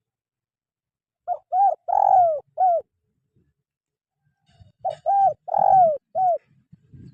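Spotted dove cooing: two phrases of four coos each, about three and a half seconds apart, the third coo in each the longest and falling in pitch.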